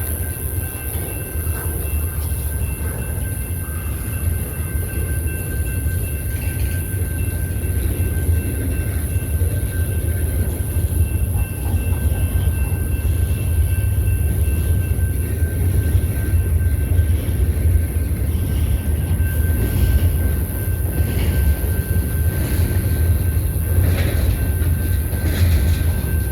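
BNSF train rolling slowly past: a steady low rumble with a faint, steady high whine over it. A few sharp clicks come near the end.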